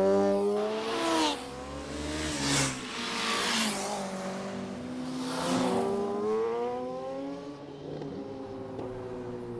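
Several motorcycle engines revving and riding past, their pitches rising and falling over one another, with a louder surge of engine and road noise every second or so.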